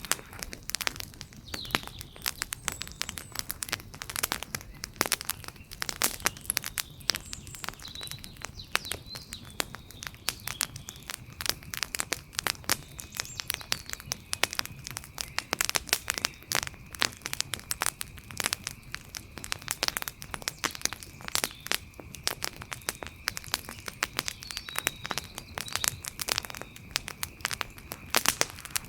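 Outdoor wood fire crackling, with dense, irregular snaps and pops over a low steady hiss. A faint steady high-pitched tone runs underneath.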